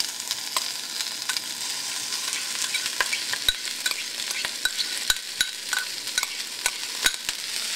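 Broccoli and carrots sizzling in hot oil in a frying pan on high heat. From about three seconds in come many sharp clicks and taps as a spoon scrapes rice out of a bowl into the pan.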